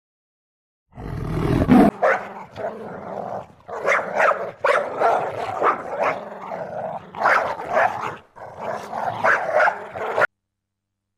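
A dog growling and barking in a string of short, irregular bursts, starting about a second in and cutting off abruptly near the end.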